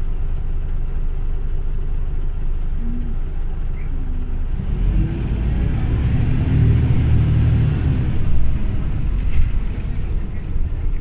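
Scania OmniLink CL94UB city bus engine running, its low drone swelling as the bus pulls away about four seconds in, loudest a couple of seconds later, then easing off.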